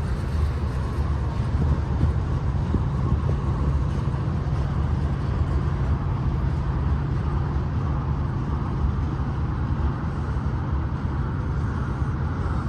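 Heavy manifest freight train's cars rolling past close by: a steady, even rumble of steel wheels on the rails.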